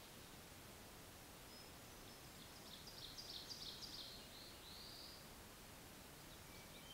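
A songbird singing faintly, a quick run of high notes starting about two seconds in and ending in a slurred note, over the steady hiss of the trail camera's microphone.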